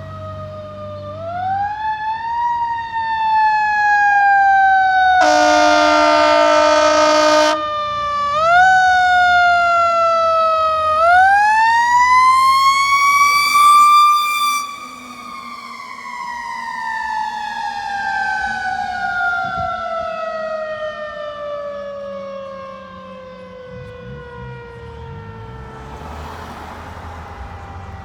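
Fire engine's mechanical Q siren winding up in short steps, then climbing to its top pitch about halfway through and slowly winding down. A steady horn blast sounds over it for about two seconds, a few seconds in.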